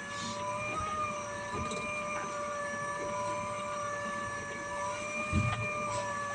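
A boat's motor running with a steady high whine, with a single knock about five seconds in.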